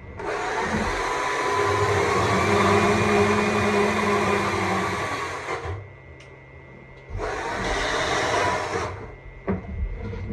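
Stihl MSA 200 C battery chainsaw cutting wood, its electric motor whine rising and sagging in pitch as it works. A long run of about five seconds, a pause of over a second, a shorter run, then it starts again near the end.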